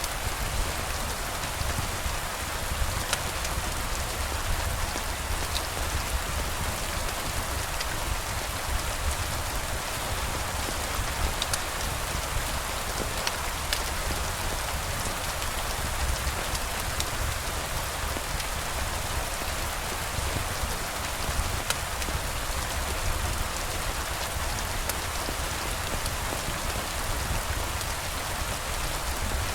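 Steady rain falling, an even hiss with a low rumble underneath and occasional sharp ticks scattered through it.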